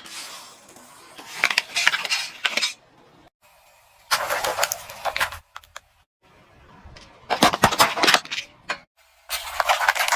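Objects crunching and crackling as a car tyre rolls over and crushes them, in four separate bursts, each cut off abruptly.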